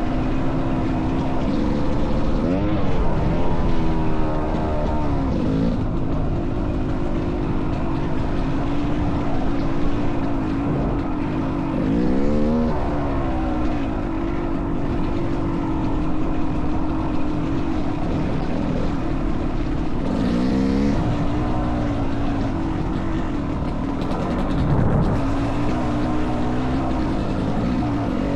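Dirt bike engine running steadily, its pitch rising and falling back about four times as the throttle is worked.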